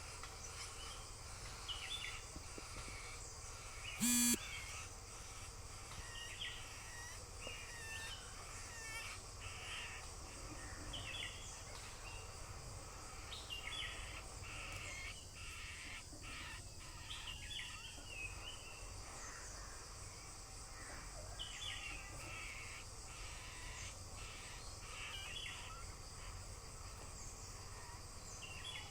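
A bird calling over and over in short high chirps, one every second or two, with one louder, brief harsh call about four seconds in. A steady low rumble runs underneath.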